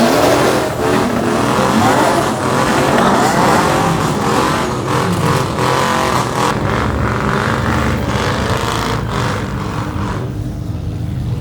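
Several car engines revving and running at once, their pitches rising and falling as they rev, easing off somewhat near the end.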